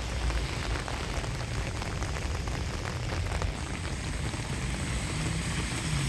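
Steady rain falling, an even hiss with faint scattered drop ticks. About five seconds in, a low steady hum starts up underneath.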